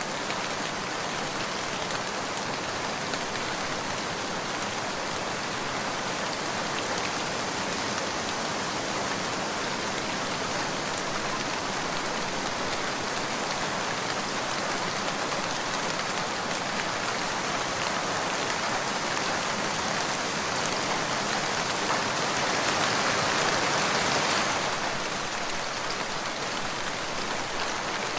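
Steady rain falling on a surface, with scattered drops ticking. It swells louder for a few seconds near the end, then settles back.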